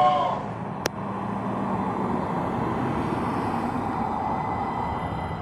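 Steady rumbling vehicle noise with a single sharp click about a second in; the last held chord of music fades out at the very start.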